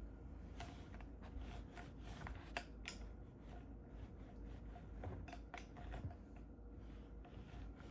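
Faint, scattered light clicks and taps of tableware being handled, such as a fork or knife against a plate, over a low steady room hum.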